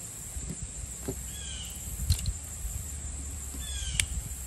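A bird outdoors repeats a short slurred call about every two seconds. Under it, hands fitting the slide and spring into a small metal carburetor make light rubbing and handling noise, with a sharp click about two seconds in and a louder one near the end.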